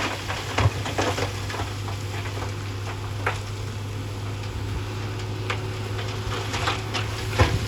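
Heavy machine engine running low and steady, with scattered light clicks and crackles over it.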